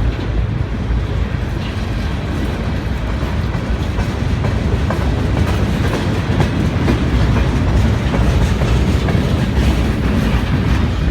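Long freight train rolling past: a steady rumble with the clack of wheels over rail joints.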